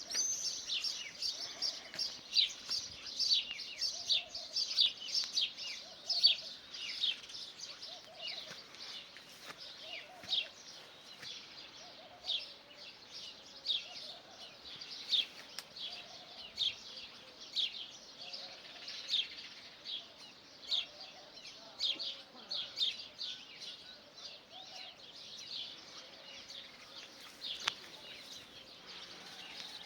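Birds chirping: a steady run of short, high, falling chirps, several a second, with fainter lower notes repeating underneath.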